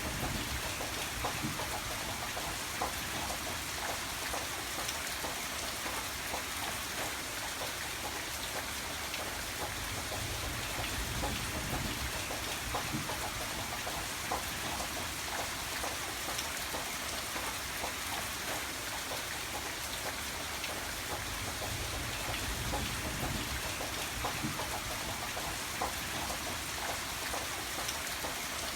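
Steady rain falling on a surface, with many distinct drops ticking over a constant hiss and a low rumble beneath.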